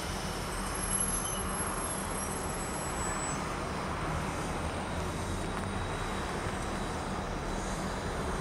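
Steady low rumble of trains: a pair of freight diesel locomotives approaching, and a suburban electric train easing along the platform. Faint high-pitched tones sound over it for the first few seconds.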